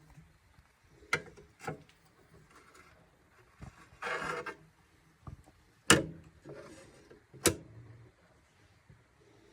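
A few sharp knocks, with a short scraping rub in the middle, of hard objects being handled; the loudest knock comes about six seconds in.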